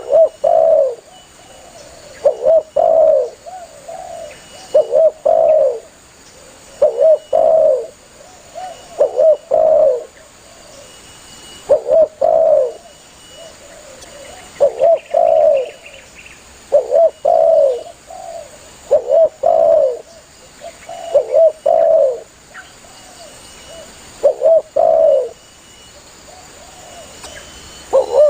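Spotted dove (tekukur) calling persistently, its phrase of two or three soft, dipping coos repeated about every two seconds.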